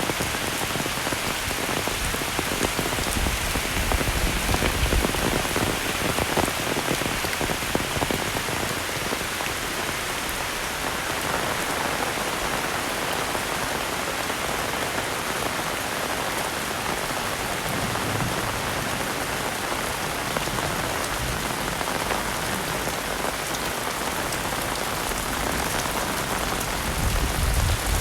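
Heavy rain falling steadily, a dense even hiss of drops hitting surfaces, with brief low rumbles about four seconds in and again near the end.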